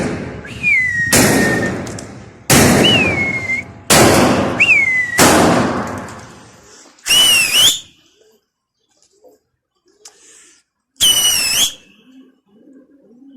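A pigeon keeper driving his flock into the air: a run of loud, echoing bangs about a second apart, each followed by a sharp falling whistle, then two longer whistles that rise at the end. Faint pigeon cooing near the end.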